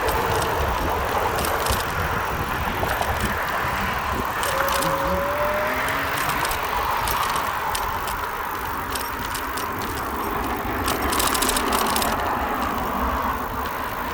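Wind rumbling on the microphone and road noise while riding a bicycle, with scattered clicks and rattles of the bike, and a brief rising tone about four seconds in.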